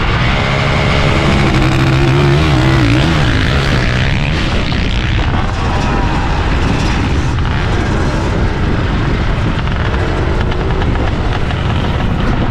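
Motorcycles in a drag race, a KTM 1090 Adventure among them, accelerating hard with loud engine revs. The pitched engine note is strongest in the first few seconds and wavers about three seconds in, then gives way to a more spread-out engine noise.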